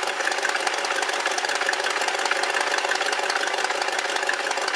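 1969 Lincoln Mark III's 460 V8 idling steadily just after starting. It runs evenly, without misfiring, now that a loose ignition connection has been tightened.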